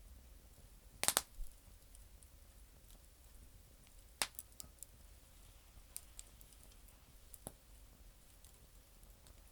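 Campfire of damp firewood crackling: sparse, sharp pops, the loudest a quick double pop about a second in, with single pops around four, six and seven and a half seconds in and fainter ticks between.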